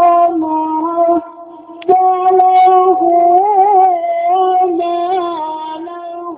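A male Quran reciter chanting in the melodic, drawn-out style, holding long high notes with wavering ornamental turns. The voice breaks off about a second in and comes back a moment later with another long held phrase.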